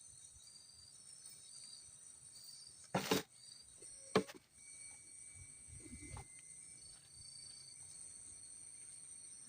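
Forest insects such as crickets chirring steadily in a faint high buzz, with two short, sharp knocks about three and four seconds in and a soft low thud a little later.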